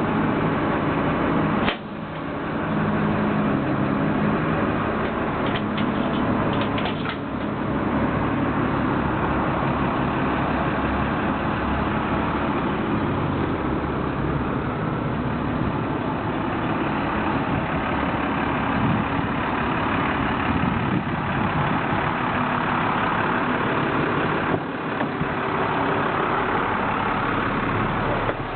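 2005 International fuel truck's diesel engine running steadily, with a sharp click and a brief dip about two seconds in.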